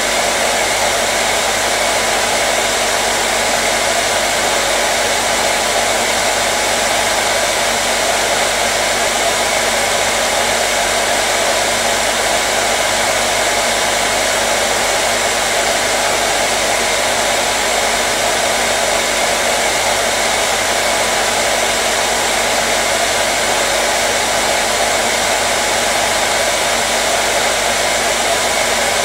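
Hair dryer running continuously at a steady speed: an even, loud rush of air with a faint motor hum underneath.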